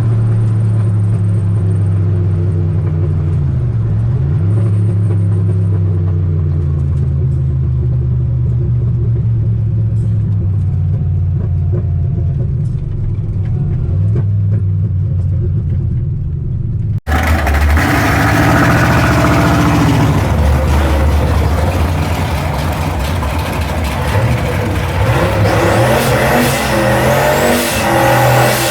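Turbocharged 302 V8 of a Fox Body Mustang running at low revs with a steady rumble, its revs dipping briefly and coming back about four seconds in. After an abrupt cut about two-thirds through, a louder, harsher engine sound follows, revving up and down near the end.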